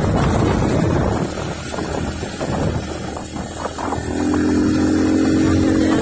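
A motor engine running with a continuous low rumble, and a steady higher tone joining about four seconds in.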